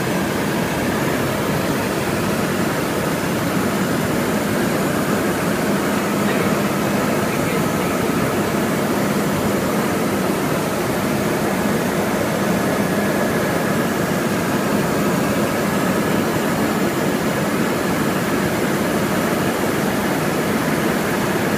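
Helicopter in flight heard from inside the cabin: steady, unbroken engine and rotor noise with a faint hum under it.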